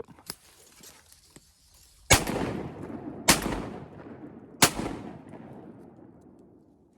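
Three shotgun shots, roughly a second and a quarter apart, each followed by a long echoing decay that fades out over the next couple of seconds.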